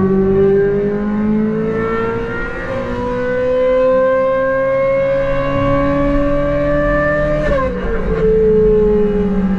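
Lamborghini Aventador SVJ Roadster's V12 engine pulling steadily, its pitch rising slowly for about seven seconds. About seven and a half seconds in the pitch drops sharply at a gear change, then keeps falling gently as the revs ease off.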